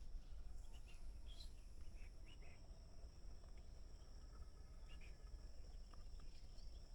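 Faint rural outdoor ambience: a steady high insect drone with a few short bird chirps scattered through it.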